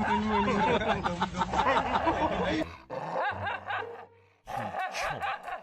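People chuckling and laughing, with a little talk, broken by abrupt cuts about two-thirds of a second apart from a brief near-silent gap past the middle.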